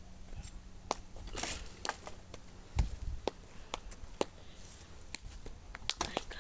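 Scattered, irregular light clicks and knocks, a couple of them a little louder, over faint background noise.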